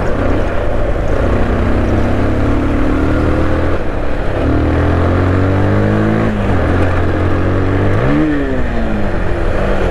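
Bajaj Pulsar 220F's single-cylinder engine pulling the motorcycle along, its pitch climbing with the revs and dropping sharply at gear changes about four and six and a half seconds in, with a quick rise and fall near the end; the rider says the gears keep sticking. Steady wind and road noise on the helmet-mounted microphone runs under it.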